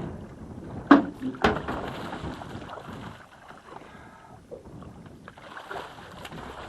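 Water splashing as a hooked redfish thrashes at the surface beside a boat, with two sharp knocks about a second in, half a second apart, then quieter lapping.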